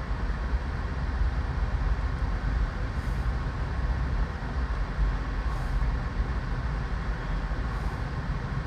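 Steady, uneven low rumble of outdoor background noise, with no single distinct event.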